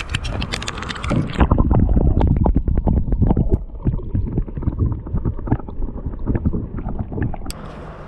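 Rapid, irregular knocks and rattles from movement in a small jon boat, loudest in the first few seconds, thinning out and stopping about seven and a half seconds in.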